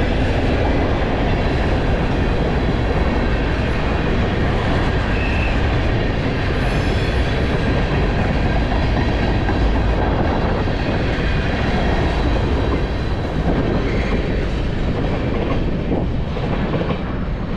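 CSX freight train's cars rolling past on the rails, a steady, loud rumble of wheels on track.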